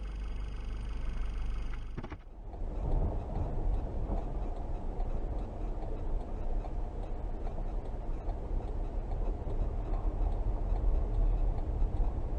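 Steady car driving noise, engine and tyre rumble heard from inside a vehicle. The sound changes abruptly about two seconds in, then settles into a steady low rumble.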